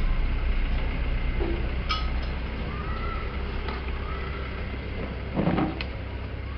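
A low, steady mechanical hum that slowly fades, with a few light clinks about two seconds in and a short knock near the end.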